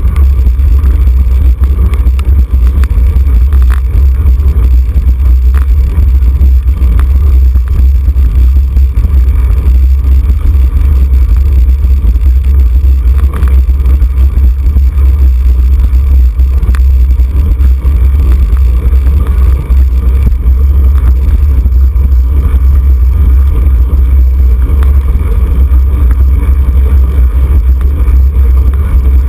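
Wind buffeting the microphone of a camera on a racing bicycle at speed: a loud, steady low rumble.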